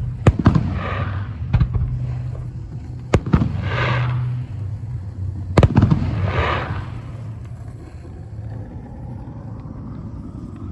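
Fireworks display: sharp aerial shell bursts, each followed within a second by a crackling shower. The loudest bangs come about half a second, 3 s and 5.5 s in, and the bursts thin out over the last few seconds.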